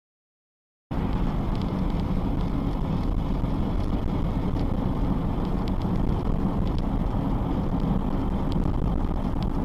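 Silence for about the first second, then the steady rumble of a vehicle on the move, engine and road noise with a few faint clicks.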